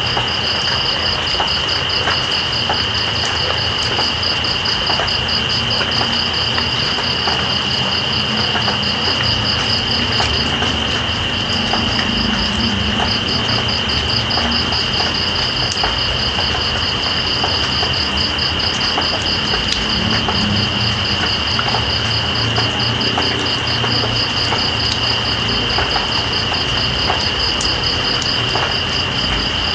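Night insects over steady rain: one insect holds a continuous high trill while crickets chirp in a fast, even pulse that pauses briefly about a third of the way in, over an even rain hiss with scattered drip ticks.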